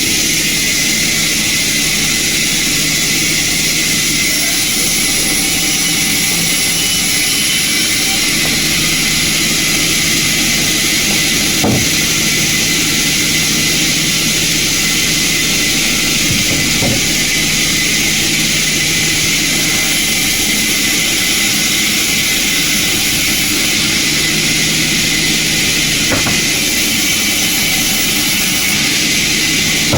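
Sawmill machinery running steadily: a loud, even hiss over a low, constant hum, with a few faint clicks.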